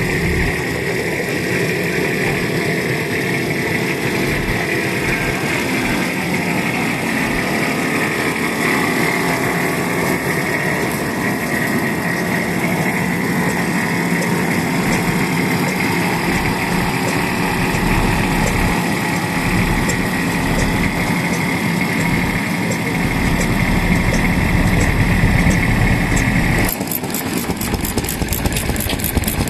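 Vintage stationary kerosene engines running, a continuous mechanical clatter. A steady higher whine cuts off abruptly a few seconds before the end, leaving a faster, sharper ticking.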